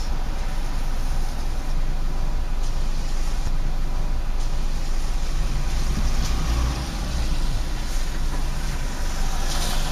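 Steady low rumble of a moving car: engine and road noise while driving.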